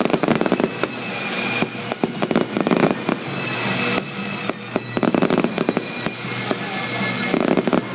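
Fireworks display going off: a dense, continuous run of sharp crackling pops and bangs over a steady hiss.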